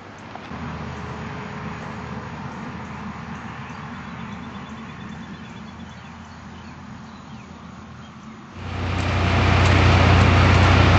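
Pixall BH-100 pea harvester running with a steady engine sound. Near the end it becomes much louder over about a second, with a strong deep hum.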